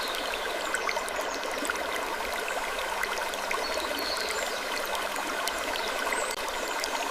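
Soft wooden creaks and small ticks scattered over a steady, even hiss, with a few faint high-pitched creaking glides.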